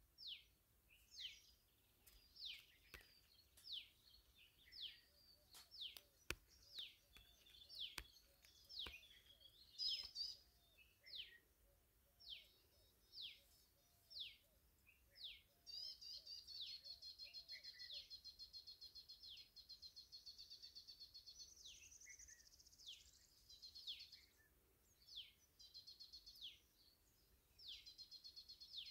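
Birds calling: a run of short, sharply falling notes about one a second, joined about halfway through by a fast trill that comes back twice near the end.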